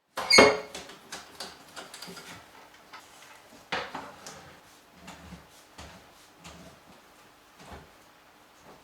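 Knocks and clicks from handling wood and tools: a loud sharp knock with a brief ring near the start, another strong knock a little under four seconds in, and lighter irregular knocks and clicks in between.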